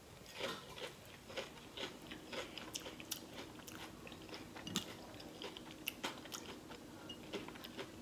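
Close-miked chewing of a crispy battered onion ring, with irregular crunches.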